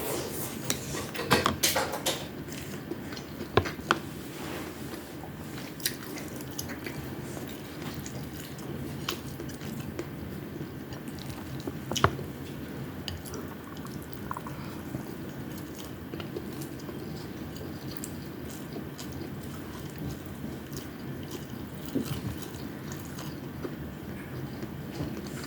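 Close-up mukbang eating sounds of a person eating fried tamban fish and rice: chewing with wet, squishy mouth sounds. Scattered sharp clicks come through, with a cluster a second or two in and a loud one about twelve seconds in.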